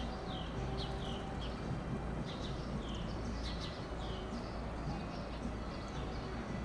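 Small songbird chirping repeatedly: short downward-sliding chirps, often in pairs, every second or so. A steady low hum runs underneath.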